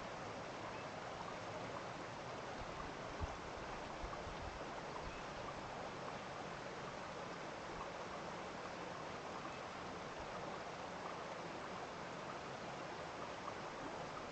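Steady rushing hiss of a flowing stream, with a faint low thump about three seconds in and another about a second later.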